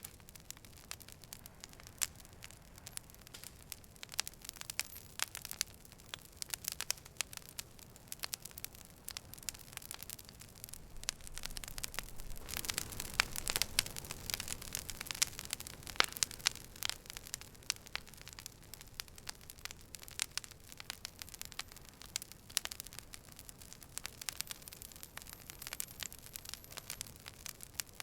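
Campfire crackling: a steady scatter of sharp snaps and pops over a faint hiss, growing denser and louder for a few seconds around the middle.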